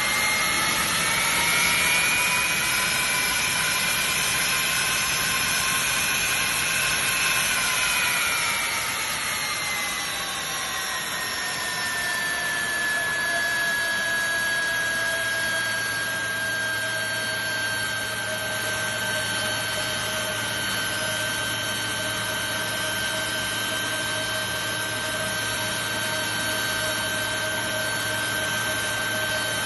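Boeing 747-400 turbofan engine running on a ground run-up: a steady jet roar with a high whine that rises slightly, then from about eight seconds in spools down over several seconds and settles at a lower steady pitch.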